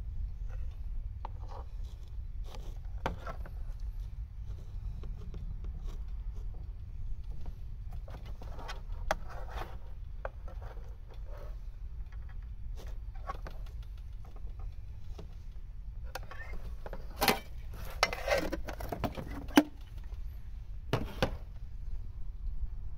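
A plastic rice paddle scraping and scooping cooked rice from an aluminium mess tin into a bowl: scattered soft scrapes and taps, with a few louder clicks and knocks near the end, over a steady low rumble.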